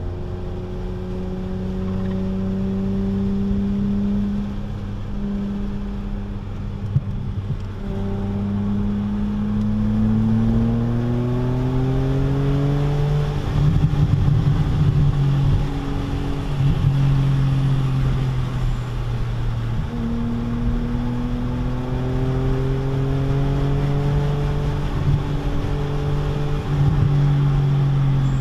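A 2006 BMW Z4 M's straight-six with its muffler deleted, heard from inside the cabin, accelerating on track. Its pitch climbs steadily, drops at an upshift about halfway through, then holds fairly level at speed, with tyre and wind noise underneath.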